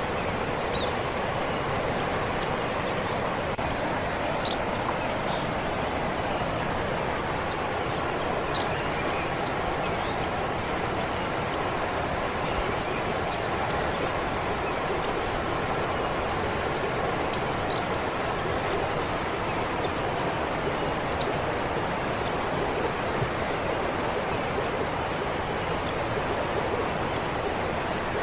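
Forest stream flowing with a steady rush of water, and small birds chirping throughout in quick clusters of short, high, falling notes.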